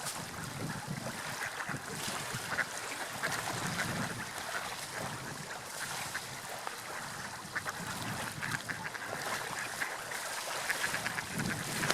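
Water lapping and splashing, a steady wash with many small crackling splashes.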